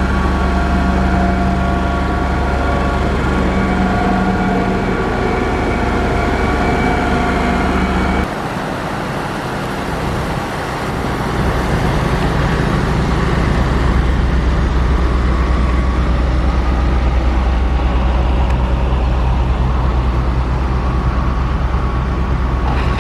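Heavy road-construction machine's diesel engine running steadily, most likely a motor grader at work. About eight seconds in the sound changes abruptly, then a steady engine sound continues, growing louder over the next few seconds.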